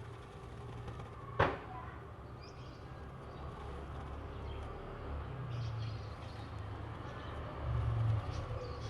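Steady low outdoor background rumble, with one sharp click about a second and a half in and faint, scattered high chirps.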